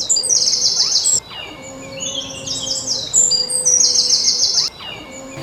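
A songbird singing two similar phrases about three seconds apart, each a run of quick high notes ending in a fast trill.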